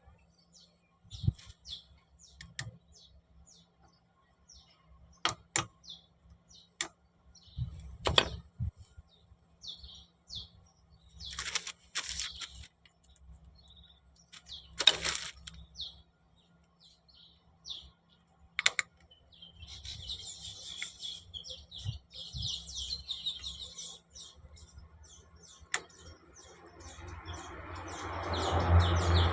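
Birds chirping, with a few sharp clicks and knocks scattered through; the chirping grows denser past the middle, and a loud rising noise swells up near the end.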